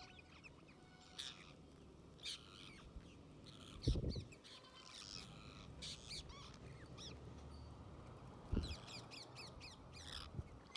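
Wild birds chirping and calling in short, high, quick notes throughout, with two dull thumps about four seconds in and near the end.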